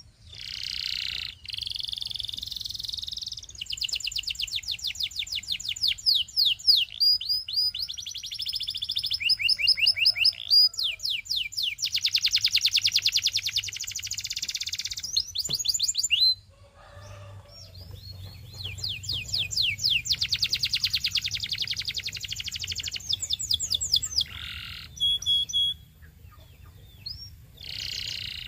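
Canary singing a long, loud song of rapid trills and rolls: phrases of fast repeated notes, each held for a few seconds, with short pauses between them.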